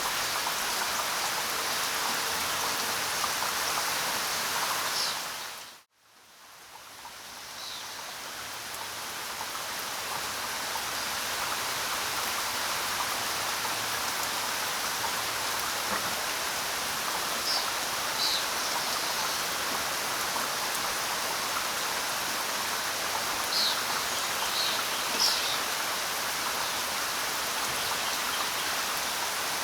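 Steady heavy jungle rain. About six seconds in it fades down to near silence and swells back up over the next several seconds, and a few short high sounds stand out over the rain later on.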